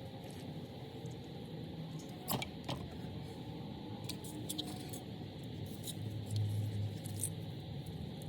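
Light clicks and clinks of small metal parts being handled, with two sharper clinks a little over two seconds in and a brief low hum around six seconds in.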